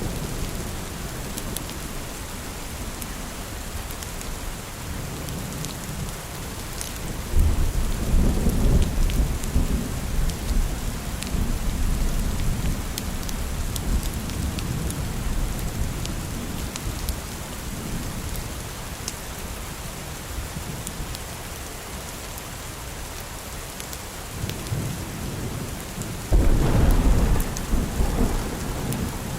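Steady rain with two low rolls of thunder, one breaking about seven seconds in and rumbling off over several seconds, the other breaking near the end. Faint sharp clicks are scattered through it.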